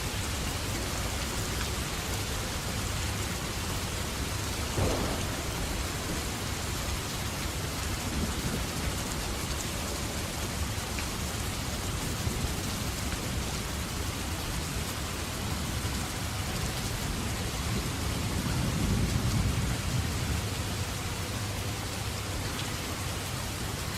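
Steady rainfall with thunder: a sharp crack about five seconds in and a low rolling rumble that swells and fades later on.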